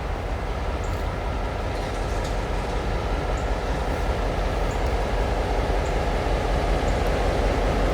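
A train rumbling steadily, growing gradually louder as it approaches.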